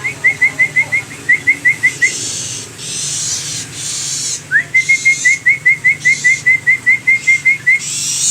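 Long-tailed shrike (cendet) singing: two runs of quick, evenly spaced whistled notes, about five a second, each run opening with a rising note. Harsh hissing rasps come between the runs and again near the end.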